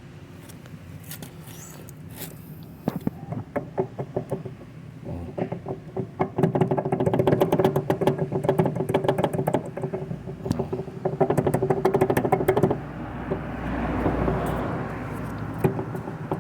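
Washing machine running with a steady hum and a rapid, loud rattling and knocking that builds up and then gives way to a smoother whir near the end. The noise comes from a worn shaft with too much play and a worn ratchet.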